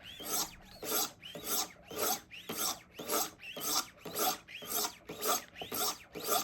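100-grit stones of a Wicked Edge Go guided knife sharpener being stroked along a knife edge, working off the burr: a rhythmic rasping scrape about twice a second, each stroke with a rising squeal.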